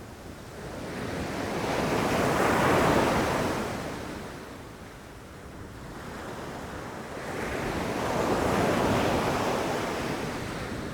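Ocean surf: two waves rush in one after the other, each a rising and falling wash of noise, the first peaking about three seconds in and the second near the end.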